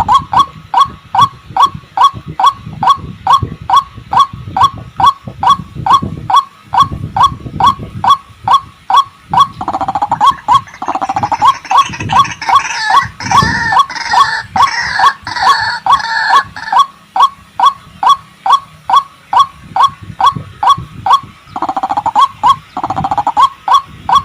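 White-breasted waterhen (ruak-ruak) calling: a long run of repeated short 'kwak' notes at about two a second. Partway through, a louder, harsher stretch of overlapping calls joins in. This is the bird's call used as a trapping lure.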